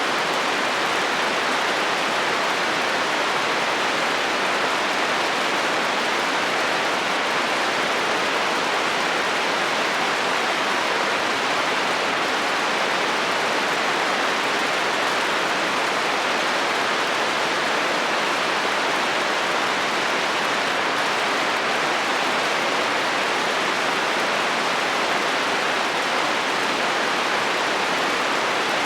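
Steady rain on a metal roof: an even, unbroken hiss of drops.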